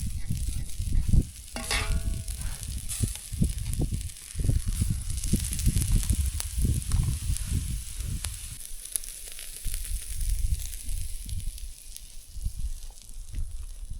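BBQ chicken sizzling over an open campfire, a steady high hiss, with uneven low rumbling throughout. A brief pitched call sounds about two seconds in.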